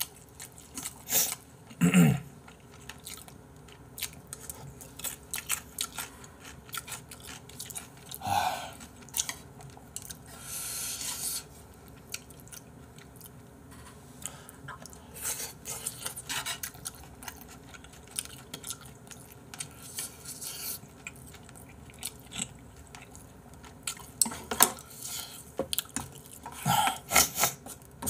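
A person chewing mouthfuls of boneless spicy braised chicken, with scattered clicks of wooden chopsticks and a spoon against ceramic bowls and a few short, louder mouth noises.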